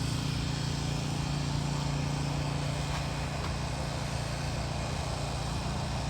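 Steady drone of highway traffic: a constant low hum with an even hiss over it and no distinct events.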